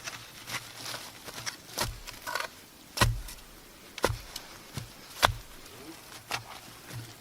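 Sharp knocks, each with a dull thud beneath it, coming about once a second.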